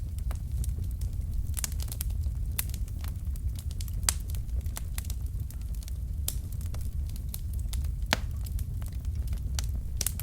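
Wood fire burning in a fireplace: logs crackling and popping in irregular sharp snaps over a steady low rumble of the flames, with louder pops about four and eight seconds in.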